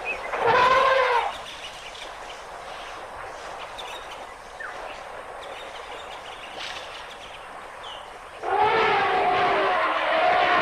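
African elephant trumpeting twice: a short blast about half a second in and a longer call from about 8.5 s that runs on. Faint bird chirps in between.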